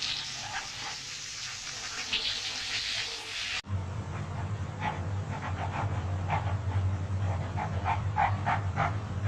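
A dog making a run of short vocal sounds, about two a second, over a steady low hum.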